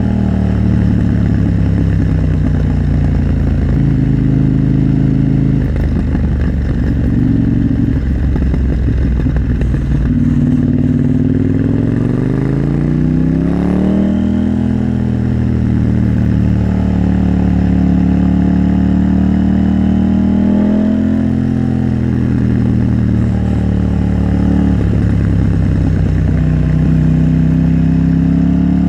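KTM 890 Duke R parallel-twin engine and exhaust running under way, the pitch stepping up and down with throttle and gear changes, with one long climb in pitch about halfway through as it accelerates.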